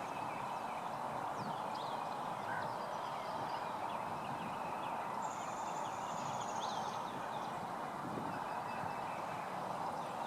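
Birds chirping, with many short high calls scattered throughout and one thin, high, steady note held for about a second and a half near the middle, over a steady rushing background noise.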